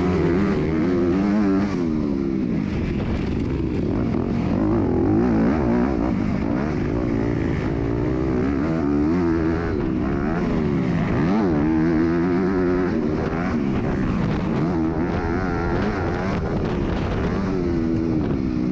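MX2 motocross bike engine racing around a dirt track, its pitch climbing and dropping again and again as the throttle is opened and closed through the gears and corners, heard close up from an on-board camera.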